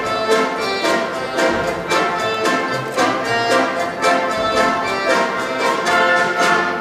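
Lively orchestral dance music, with bowed strings to the fore and a brisk, even beat; no singing.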